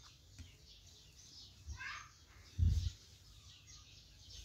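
Birds chirping in the background, with many short high chirps throughout. A single dull low thump about two and a half seconds in is the loudest sound.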